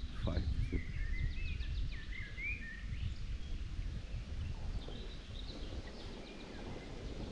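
Small birds singing high warbling phrases, busiest in the first three seconds, over a steady low rumble.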